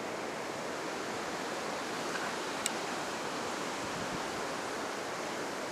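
Steady wash of heavy Pacific surf breaking on a sandy beach, high after a typhoon, with one short sharp click about halfway through.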